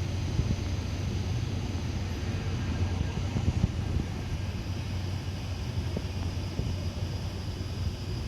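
Railway train giving a steady low rumble, with a few short knocks about three to four seconds in.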